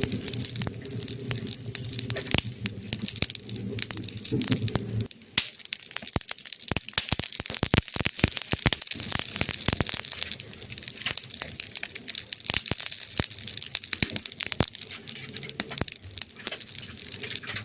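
Burning wood fire crackling, with frequent sharp snaps and pops over a steady hiss; one louder pop about five seconds in.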